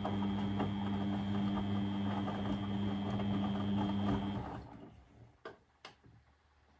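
Beko WMB 71643 PTE washing machine running with a steady hum and a faint high whine that stops about four and a half seconds in, followed by two sharp clicks.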